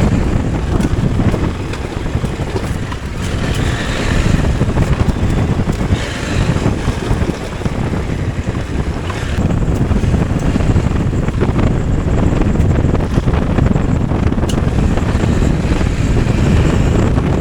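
Motorcycle under way, with heavy wind buffeting the microphone over the engine's steady running.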